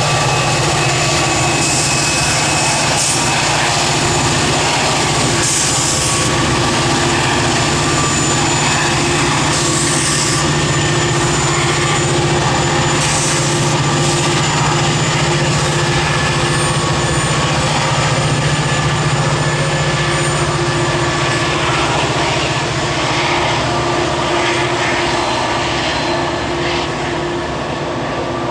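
EMD SD40E diesel locomotive running under heavy load as a pusher shoving a freight train, a loud steady engine drone with steady whining tones above it, easing slightly near the end.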